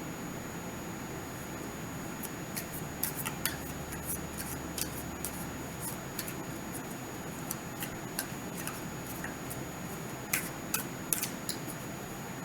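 Tarot cards being shuffled by hand: irregular crisp clicks and snaps of card edges, coming in small flurries about three seconds in and again near the end.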